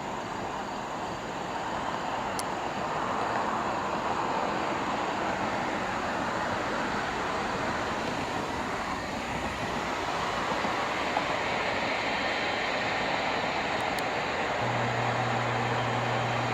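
Steady jet engine noise from a Boeing 777-200LR's GE90 engines at low power while it taxis to the runway. A steady low hum joins near the end.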